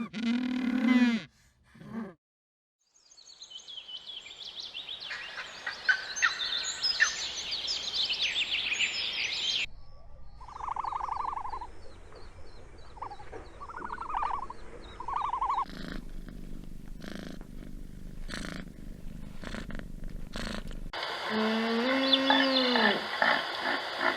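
A run of different animal sounds cut one after another: a short pitched call at the start, a long stretch of high chirping, three short pulsed calls, a stretch of clicks, then repeated pitched calls near the end.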